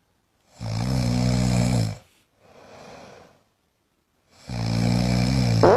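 An animal snoring: two long pitched snores, each about a second and a half, with a quieter breath between them.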